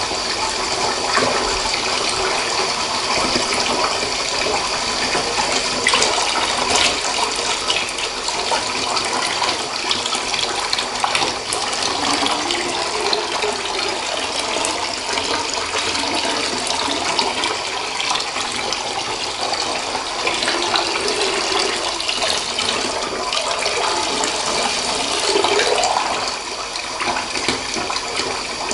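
Steady rush of water running and splashing into a bathtub, with scattered small splashes and drips over it.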